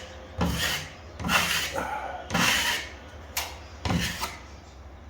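Wide drywall knife scraping and spreading joint compound in about four strokes, roughly one a second, with a sharp click of the blade partway through, as the top coat is loaded onto a taped crack.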